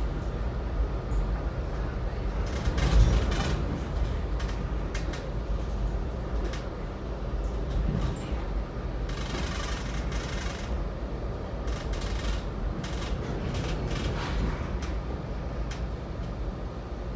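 Metra commuter train running along the line, heard from aboard: a steady low rumble with repeated clacks and rattles, a heavier knock about three seconds in, and a brief hiss about nine seconds in.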